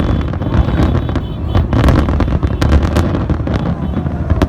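Aerial fireworks bursting in quick succession: a dense run of sharp bangs and crackles over a continuous low rumble.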